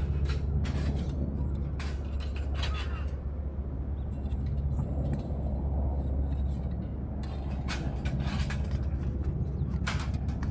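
Light metallic clicks and taps of thin steel heat-shield plates being fitted together on a camping fire pit stand, over a steady low engine drone.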